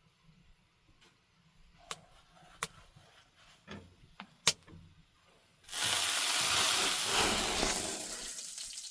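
A few light clicks and knocks, then a little over halfway through a sudden loud hissing rush that slowly fades.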